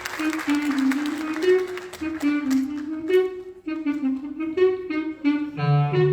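Live instrumental music: a melody moving note to note in a low-middle register, with a lower instrument holding a note near the end.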